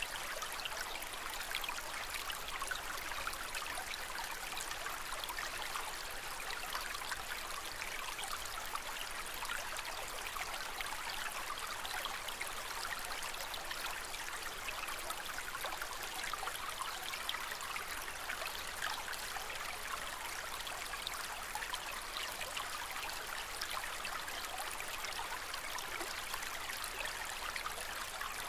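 Water moving steadily in an aquarium: an even wash of many small splashes and bubbles, without a break.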